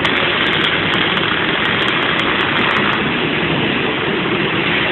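MIG (gas metal arc) welding on a steel truss: a steady, dense crackle from the arc running .035 solid wire under 75/25 argon–CO2 shielding gas.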